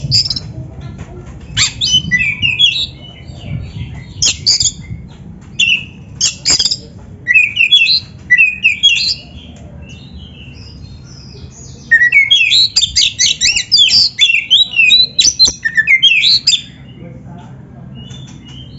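Oriental magpie-robin (kacer) singing in loud bursts of quick, varied whistled phrases with short pauses, busiest a little past the middle. A faint low hum runs underneath.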